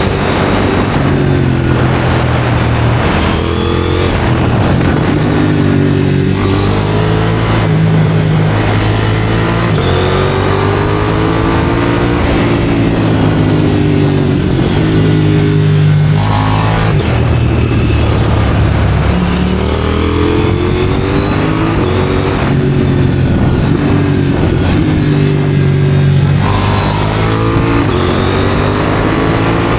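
KTM 790 Duke's parallel-twin engine through an IXRACE aftermarket exhaust, under way and revving up over and over, the pitch climbing and then dropping at each gear change or throttle lift.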